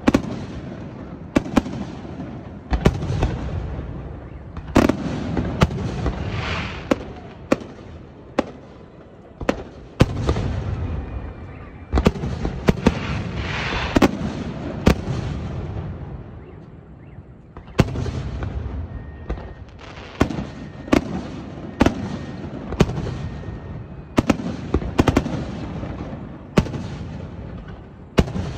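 Fireworks display: aerial shells bursting overhead in an irregular run of sharp bangs, about one or two a second, over a continuous rumble and hiss.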